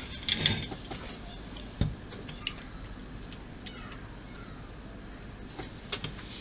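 Small tools and plastic model parts handled on a workbench: scattered light clicks and taps, with a dull knock just under two seconds in and a few more clicks near the end.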